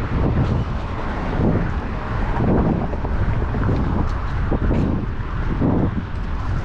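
Wind buffeting the microphone of a bike-mounted camera while cycling, a loud uneven low rumble that swells and dips every second or so.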